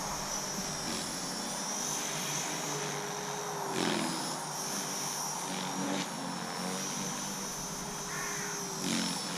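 Align T-Rex 450 electric RC helicopter in flight: the steady high whine of its motor and the hum of the spinning rotor. The pitch dips and swoops briefly about 4 s in and again near the end as the load on the rotor changes.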